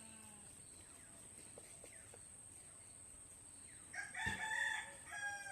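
A rooster crowing once near the end, a single pitched call lasting about a second and a half, over a quiet background.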